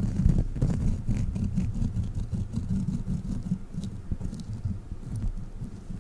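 A sticky rubber crawler toy pressed and rubbed against the microphone, giving a continuous low, fluttering rumble with a few light sticky clicks.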